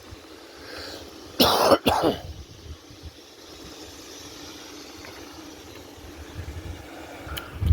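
A person coughs twice in quick succession, over a steady low rumble of wind and riding noise.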